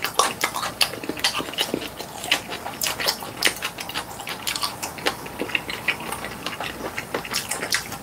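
Close-miked chewing and lip-smacking while eating sausage-and-vegetable stir-fry: a busy, irregular run of short wet clicks and smacks.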